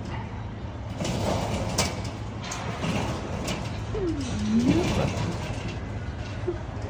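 Clattering knocks and rattling, with a creak that slides down and then back up in pitch about four seconds in.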